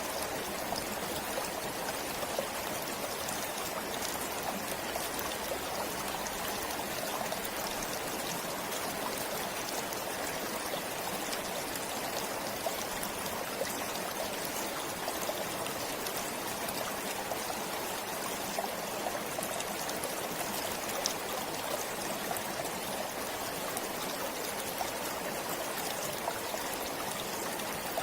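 Forest stream flowing steadily over rocks, a continuous rush of water with small trickles and splashes.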